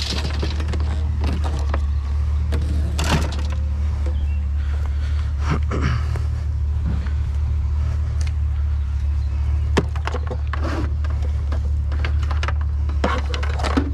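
Truck driving: a steady low engine and road rumble, with scattered light knocks and rattles over it.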